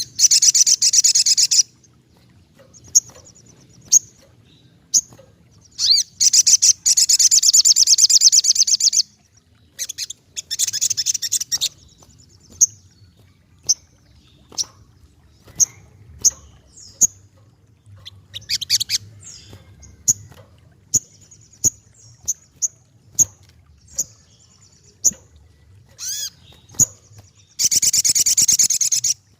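Little spiderhunter (sogokontong) calling. Four fast, high trills of one to three seconds each, the longest about six seconds in, alternate with sharp single chips.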